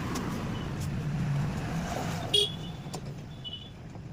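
Honda Shine SP 125 motorcycle's single-cylinder engine running steadily, with a sharp click about two and a half seconds in, after which the sound is quieter.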